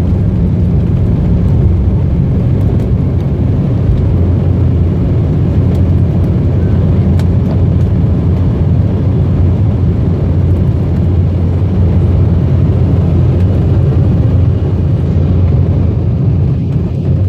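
Loud, steady low rumble of an Embraer ERJ-190 airliner's turbofan engines and airframe heard from inside the passenger cabin during departure.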